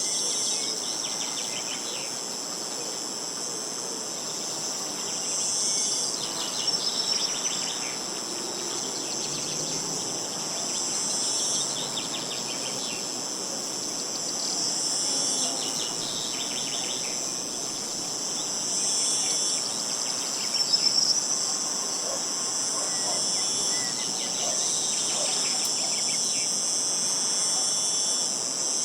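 A steady, shrill chorus of insects. Short trills recur every four to five seconds.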